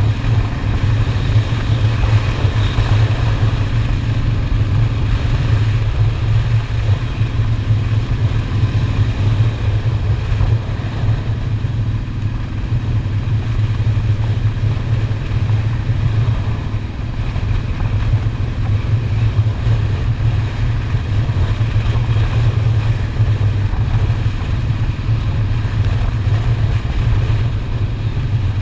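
Honda Shadow motorcycle's V-twin engine running steadily while riding, with road noise. The engine note shifts slightly about six seconds in and again about ten seconds in.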